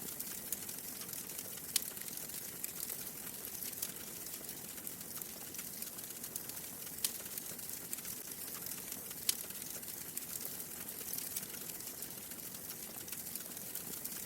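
Wood fire crackling steadily in a fireplace, a soft hiss dotted with small ticks and a few sharper, louder pops at irregular moments.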